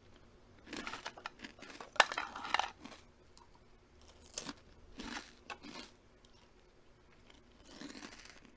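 A person chewing crunchy food: irregular crunches in several short bursts with pauses between, a sharp snap about two seconds in the loudest.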